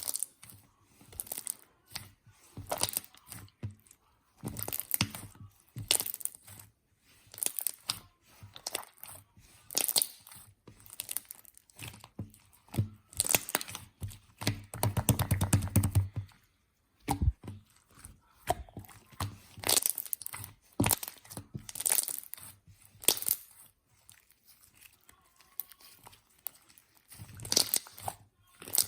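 Slime being squished and pressed by hand, giving short bursts of crackling and popping every second or two, with a longer run of rapid crackling about halfway through.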